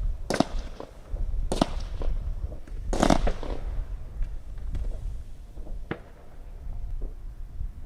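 Consumer firework cake going off: a few sharp bangs about a second apart, the loudest about three seconds in with a short echo, then a fainter crack, over a low rumble.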